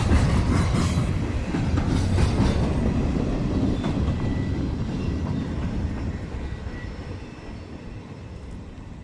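Train rolling past on the rails, its wheels clacking over rail joints with a faint squeal now and then, the rumble fading steadily as it moves away.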